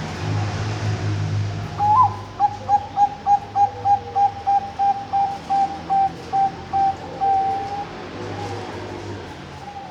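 Bangkok-line zebra dove (perkutut) cooing the opening phrase of its song: one higher note, then a run of about fifteen short, evenly spaced coos at about three a second, ending in one longer drawn-out note.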